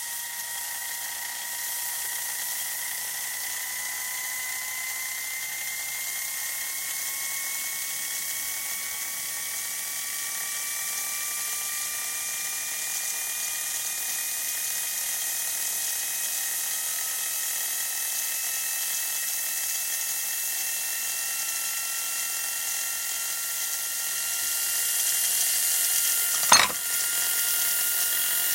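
Whizzer toy steam engine running fast: a steady high whine over a hiss, its pitch slowly rising as it gathers speed. One sharp pop comes near the end.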